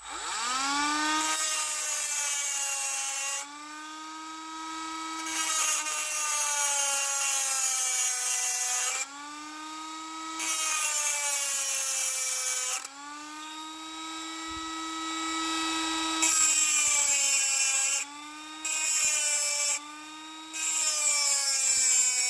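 Cordless Dremel rotary tool with a chainsaw sharpening stone spinning up, then grinding the cap off an LS truck fuel injector in about six passes of a few seconds each. The motor's whine dips in pitch each time the stone bears on the cap, and a hissing grinding noise rises over it.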